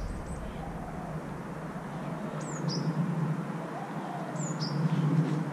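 Outdoor ambience: a steady low hum with a few short, high bird chirps that fall in pitch, about two and a half and four and a half seconds in.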